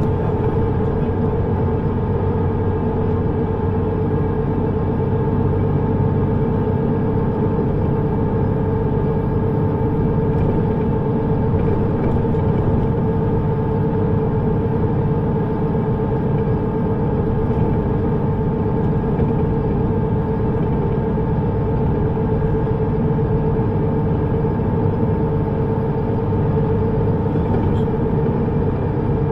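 Steady running noise of a vehicle, an even rumble with a constant droning hum that does not change.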